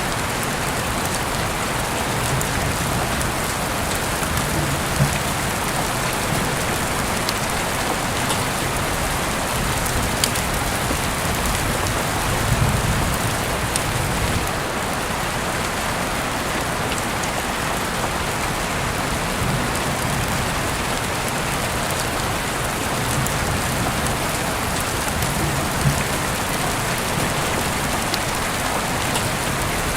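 Heavy rain falling steadily: a dense, even hiss with scattered sharper drop ticks. Low rumbles come and go, strongest about twelve seconds in.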